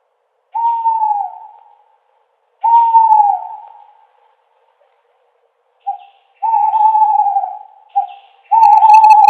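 Owl hooting: two separate hoots with falling tails early on, then a quicker run of short and long hoots in the second half.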